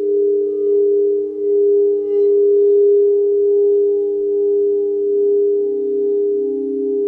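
Sustained sound-healing tones: two steady, overlapping pitches held together, swelling and fading in a slow pulse. A lower tone grows louder after about five seconds.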